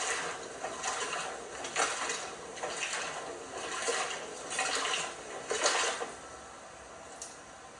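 LG washing machine mid-wash, water and wet pajamas sloshing in the drum in swells about once a second, quieter for the last couple of seconds.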